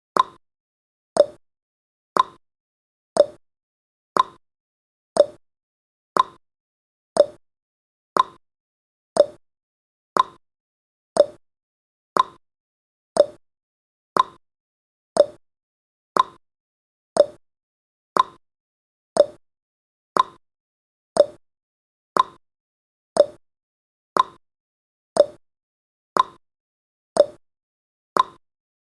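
Countdown timer's ticking sound effect: a short tick once a second, evenly spaced.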